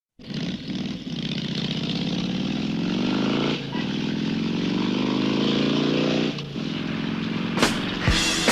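Motorcycle engine accelerating hard, its pitch climbing, dropping briefly about three and a half seconds in as it shifts up, then climbing again before backing off. Near the end, rock music drum hits begin.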